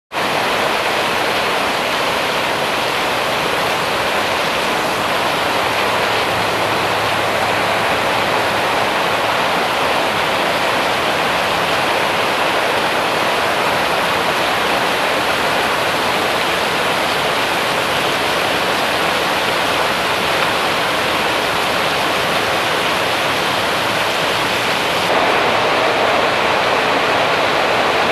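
Heavy rain pouring down in a steady, loud downpour, getting a little louder and less hissy near the end.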